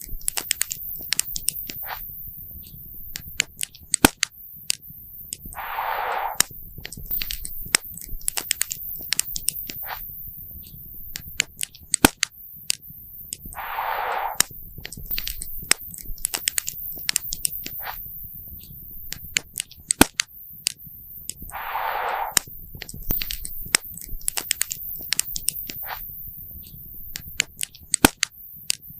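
Wood campfire crackling, with frequent sharp pops and snaps over a low rumble. A brief hiss comes up about every eight seconds.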